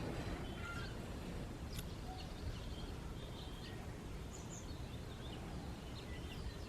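Small birds chirping faintly and intermittently over a steady low rumble of outdoor background noise.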